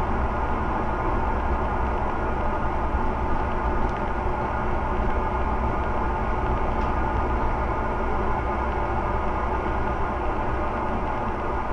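Scania OmniCity single-deck bus running steadily, its engine drone and road noise holding an even level, with a couple of faint light clicks.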